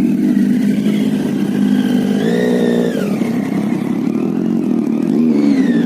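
Superbike engine running loud, revved up about two seconds in and falling back a second later, with another short rev near the end.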